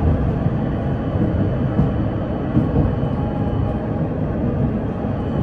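Ride noise of a PKTS 71-931M Vityaz-M tram under way: a steady low rumble of wheels on the rails, with a faint high whine.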